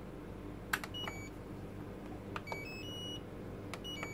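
Cuchen pressure rice cooker control panel: a sharp click followed by a short beep of three notes stepping up in pitch, twice, then another click near the end, as the freshly replaced tactile buttons are pressed and answered by the cooker's beeper. A faint steady hum runs underneath.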